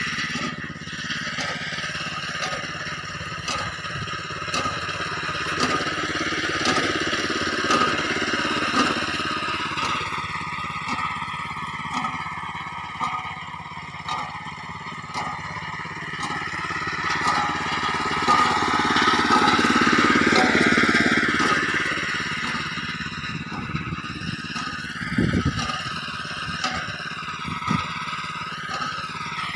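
Tractor engine running with its pitch drifting up and down, growing louder about twenty seconds in and then easing back, with a few short knocks.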